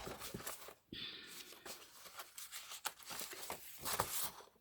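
Sheets of scrapbook paper rustling and shuffling as they are handled and leafed through, in irregular soft crinkles and flicks.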